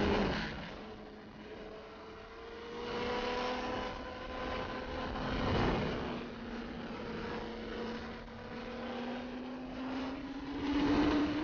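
Sport motorcycle engine running steadily at cruise, its pitch slowly rising over the last few seconds. Swells of wind rush come three times, loudest at the start and the end.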